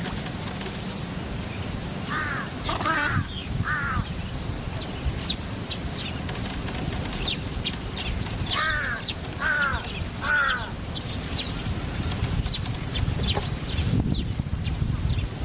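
A bird giving two runs of three harsh calls, about six seconds apart. Short high chirps from other birds run throughout, over a steady low rumble.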